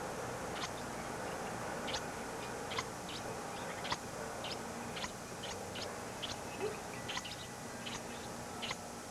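Small birds giving short, high chirps, scattered irregularly about one or two a second, over a steady VHS tape hiss.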